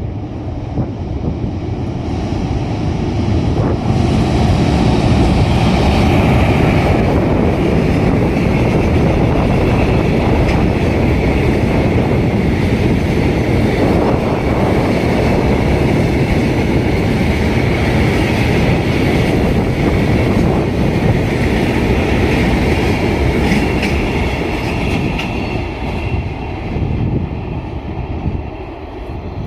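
Freight train hauled by a DF200 diesel-electric locomotive crossing a steel railway bridge: a loud, continuous rumble and clatter of wagon wheels on the bridge, with a steady higher ringing over it. It eases off over the last few seconds.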